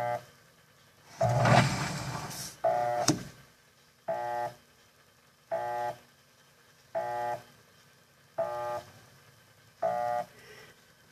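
Electrolux Turbo Limpeza 7.5 top-loader washing machine motor switching on in short humming pulses about once every second and a half, the agitator stroking only one way. The technician suspects a faulty capacitor.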